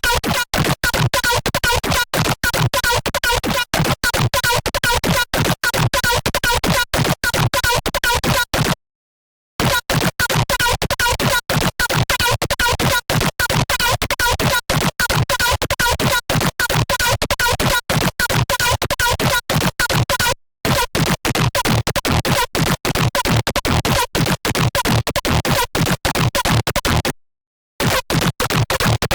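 Serum wavetable synth patch, its wavetable built from an image, playing as a harsh, rapidly stuttering electronic sound that is chopped into quick pulses like record scratching. It drops out to silence briefly about 9, 20 and 27 seconds in.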